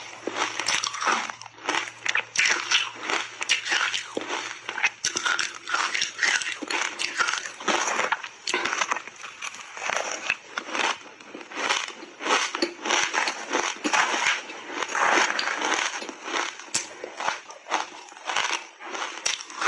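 Ice dusted with matcha powder being bitten and chewed in big bites: loud, irregular crunching and cracking of ice between the teeth, continuing throughout.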